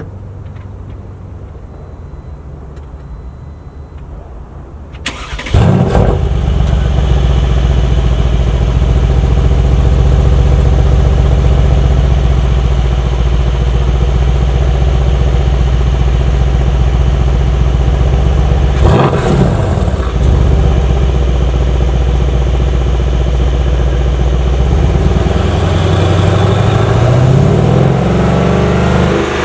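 Mercedes-AMG C63 S 4.0-litre twin-turbo V8 engine and exhaust: running quietly at first, then jumping sharply in loudness about five seconds in as the throttle opens, and holding a loud, steady note. The note dips briefly about two-thirds through and rises in pitch again near the end.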